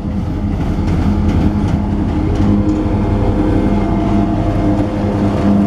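Diesel locomotives of a CSX freight train running by: a loud, steady low engine rumble with a held hum, growing a little louder in the first second.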